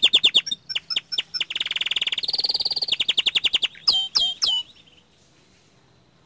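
Young domestic canary singing: rapid trills and rolls broken by a few single chirps, then three loud down-slurred notes, after which the song stops about five seconds in.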